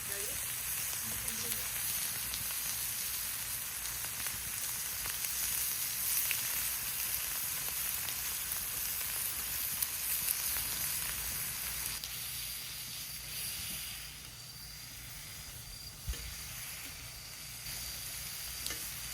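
Meat frying on a hot pan, a steady sizzle with fine crackling that eases off somewhat after about twelve seconds, with a single sharp knock near the end.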